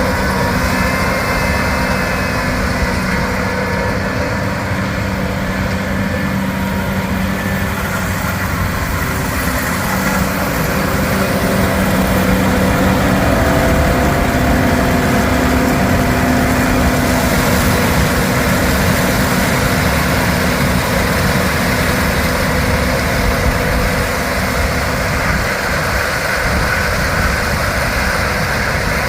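Large diesel harvest machine's engine running steadily under load, with a continuous low drone and a few steady hums and whines over it; it grows a little louder about twelve seconds in.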